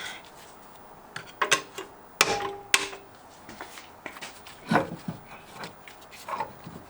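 Scattered metal clanks and knocks from tools and car parts being handled, a few of them ringing briefly, with the loudest cluster a second or two in and another near the middle.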